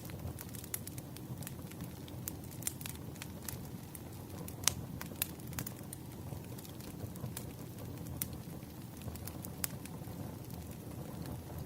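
Burning firewood crackling: a steady low rush of flame with frequent sharp pops and snaps, one louder pop near the middle.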